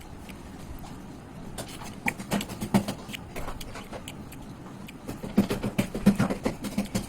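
Close-up eating sounds: wet chewing and lip smacks over a mouthful of chicken liver curry and rice, in two bursts of rapid smacks, one about a second and a half in and one near the end.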